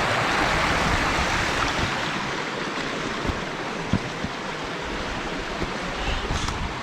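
Steady rushing noise with a few scattered low thumps, easing slightly after the first couple of seconds: wind rushing over a helmet-camera microphone during a dirt-bike ride.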